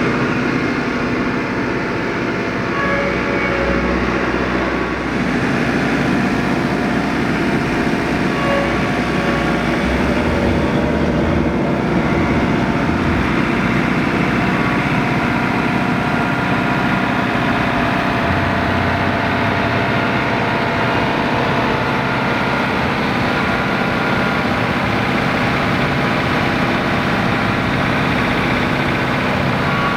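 Compact diesel tractor engine running steadily under work, a continuous low rumble with a held hum over it.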